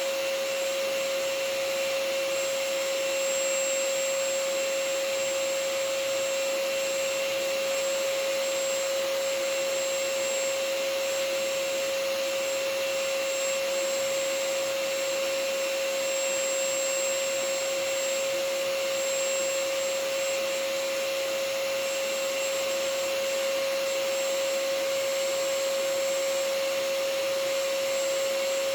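Vacuum cleaner running steadily: an even hiss with a constant motor whine on top, no change in pitch or level.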